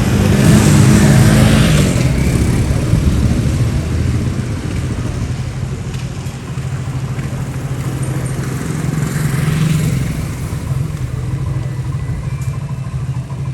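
Motorcycle engine running steadily, louder in the first two seconds and again briefly about nine seconds in.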